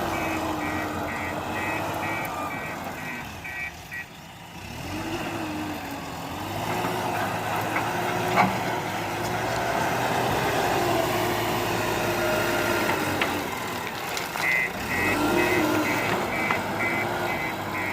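JCB 4DX backhoe loader's diesel engine running and revving up and down as it works, with its reversing alarm beeping about twice a second for the first three seconds or so and again in the last few seconds. A single sharp knock about eight and a half seconds in.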